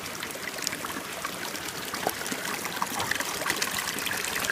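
Running stream water trickling steadily, with many small splashes and drips.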